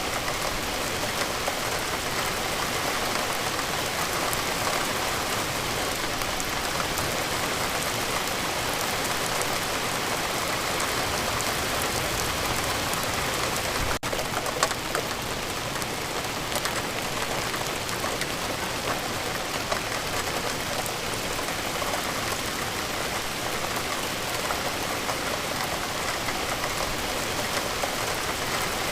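Steady rain falling, an even hiss of drops with scattered sharper drop hits. A momentary break in the sound comes about halfway through.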